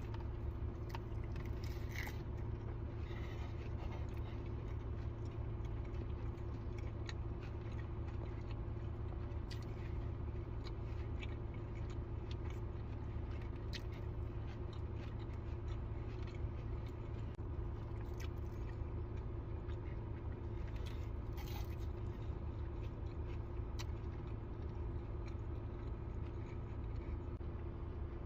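A person biting and chewing food close to the microphone: scattered small clicks and smacks over a steady low hum.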